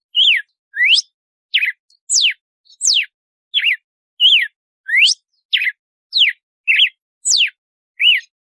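Red-cowled cardinal (galo-de-campina) singing its 'açoite' song: a steady run of clear whistled notes, about one and a half a second, alternating quick rising and falling sweeps.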